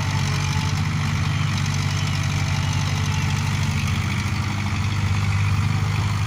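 Diesel engine of a tractor or truck running steadily at low revs, a steady low drone.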